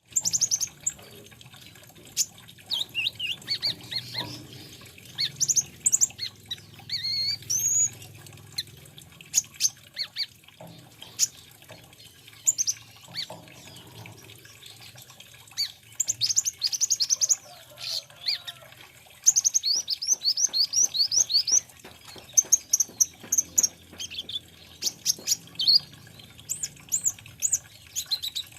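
A sunbird of the kind Indonesian bird keepers call "kolibri ninja" is singing. It gives rapid runs of high, sweeping chirps and trills, broken by short pauses between phrases. The busiest runs come about 16 and 19 seconds in.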